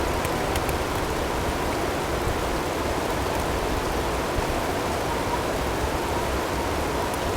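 Blizzard ambience recording: a dense, steady rushing noise of storm wind and blowing snow. A faint steady tone is blended in underneath.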